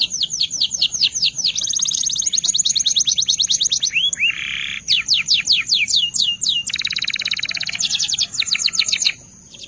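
Belgian canary singing a long, rapid song of trills made of quick falling whistles. About four seconds in there is a harsh buzzy note, and around seven seconds a very fast fine trill; the song stops shortly before the end.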